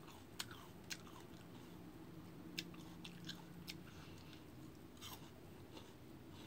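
Person chewing crisp fresh fruit slices, faint and close to the mouth, with a few sharp crunchy snaps.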